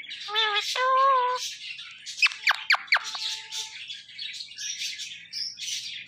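Indian ringneck parakeet calling: two short pitched calls, then a run of four quick, steeply falling whistles about two seconds in. Small birds chirp constantly in the background.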